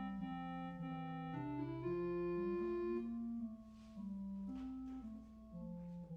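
Organ playing slow, sustained chords, the harmony moving to a new chord every second or so.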